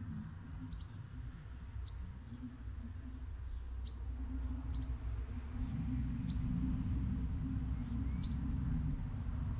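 Short, high bird chirps about once a second over a low steady rumble that grows louder about halfway through.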